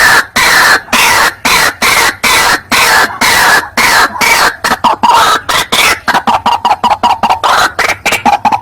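White-breasted waterhen calling: a loud, rapid run of harsh repeated notes, each dropping in pitch, quickening to a faster stutter about six seconds in. It is a recorded lure call for the bird.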